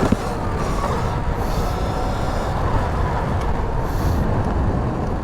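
Sur-Ron electric dirt bike riding at speed: wind rush and tyre and chain rumble, with a faint high whine from the electric motor. A sharp knock sounds just as it begins.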